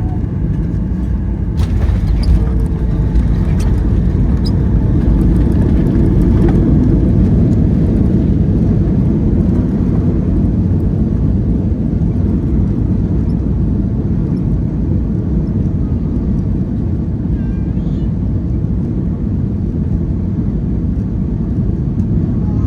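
Boeing 737-900ER cabin noise during landing: a loud, steady rumble of the jet engines and airframe, with a few knocks and rattles in the first several seconds. The rumble eases slowly toward the end.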